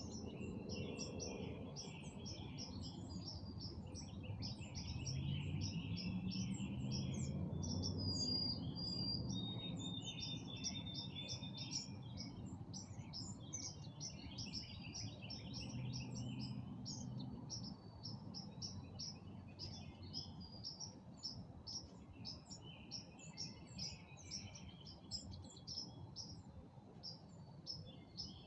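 Birds chirping in a rapid, steady series of high calls, several a second, with a low distant engine rumble that swells for a few seconds near the start and fades.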